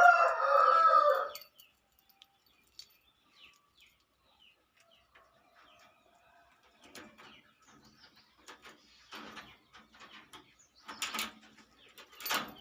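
A rooster crows once at the start, a long pitched call lasting about a second and a half. Then faint scattered clicks and rustles, with two louder rattling knocks near the end, as a lock and box are handled.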